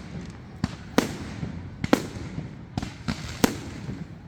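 Fireworks going off: about seven sharp bangs at irregular intervals, the loudest about one, two and three and a half seconds in, over a steady low rumble.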